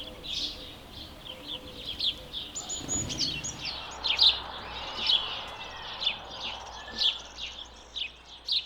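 House sparrow chirping: a rapid, unbroken run of short repeated chirps. A soft low thump comes about three seconds in.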